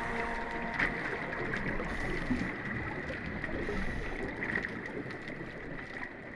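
Steady outdoor background noise with a faint steady high tone and a few light clicks. The last of the background music cuts out within the first second.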